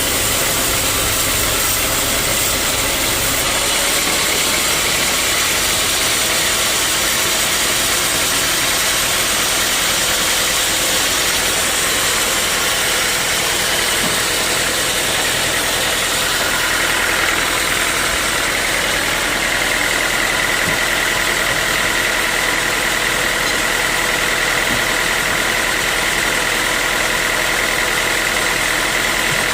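Sawmill machinery running steadily with a dense, even noise. A higher steady whine joins a little past halfway.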